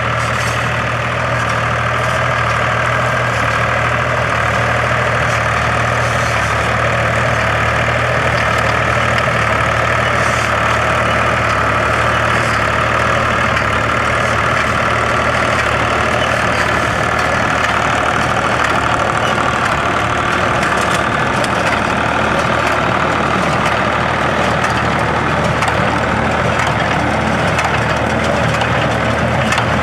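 Case IH 485 tractor's engine running steadily while pulling an IH 440 hay baler, with the baler's machinery working.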